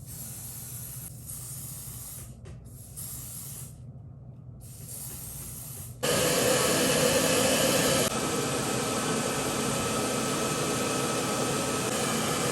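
Steady hissing noise with a few short breaks, then a sudden jump about six seconds in to a much louder, continuous rushing hiss.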